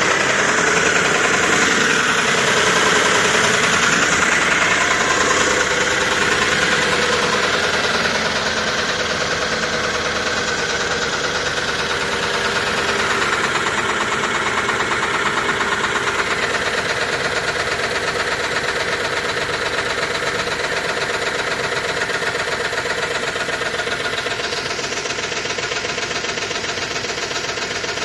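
2005 Range Rover's BMW V8 engine running steadily, with a fast, even ticking clatter.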